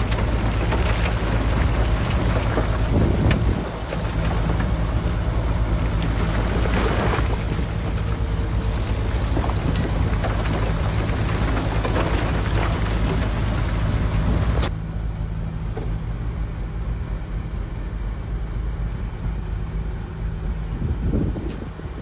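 Diesel engine of a Shantui bulldozer running steadily, with a heavy rushing noise over it and a few scattered knocks. About two thirds of the way through, the rushing noise cuts off abruptly while the low engine hum carries on.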